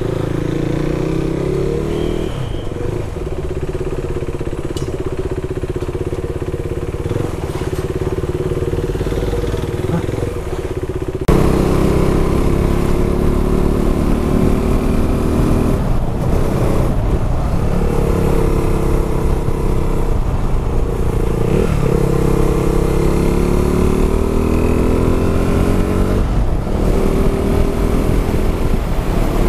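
Motorcycle engine running on the move. The sound gets suddenly louder about eleven seconds in, and after that the engine note dips and climbs several times with gear changes and throttle.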